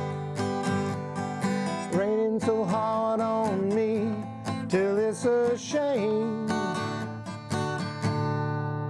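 Acoustic guitar strummed in a steady rhythm as accompaniment to a country song. Between about two and six seconds in, a melody line with bending, sliding pitch rises above the strumming.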